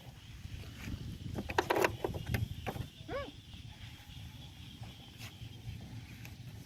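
Handling clatter, a quick run of clicks and knocks, over a low rumble, then a single short squeak from a baby monkey about three seconds in.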